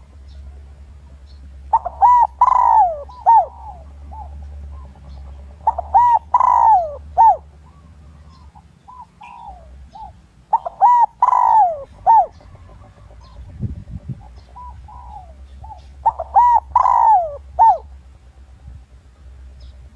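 Spotted dove cooing, the territorial call used as a lure recording to provoke rival males. Four phrases, each a quick run of coos, come about every four to five seconds over a steady low hum.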